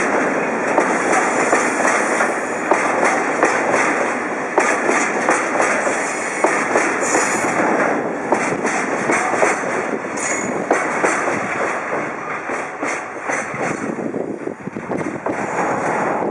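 Freight train of empty wagons rolling past, steady wheel-on-rail rumble with irregular clicks from the rail joints. The noise eases slightly toward the end.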